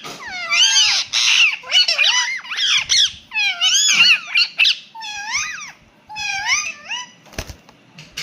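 Indian ringneck parakeet calling in a rapid series of short, high, sweeping chirps and whistles, each call rising and falling in pitch, with a brief lull about six seconds in. A single knock sounds near the end.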